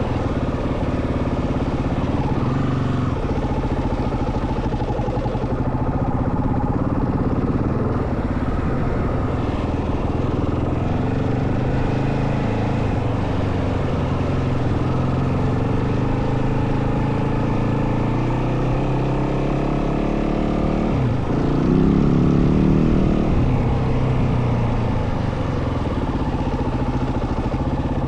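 Yamaha WR450F dirt bike's single-cylinder four-stroke engine running under way, its pitch rising and falling with the throttle. About 21 seconds in it drops briefly, then revs up louder for a couple of seconds.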